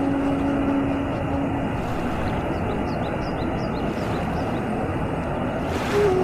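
Steady roar of a waterfall's rushing water, with a run of short high chirps in the middle.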